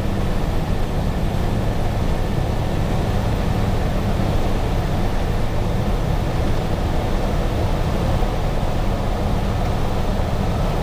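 Cummins 6CTA 8.3 turbo-diesel of a 1993 KME Renegade fire engine running steadily under way, heard from inside the cab as a continuous low drone with road and wind noise.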